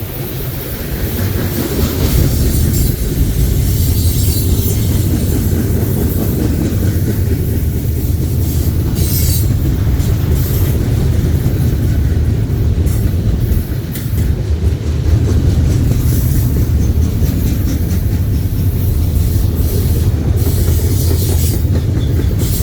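Freight train cars rolling steadily past with a heavy rumble and clatter of wheels on rail, and brief high wheel screeches now and then.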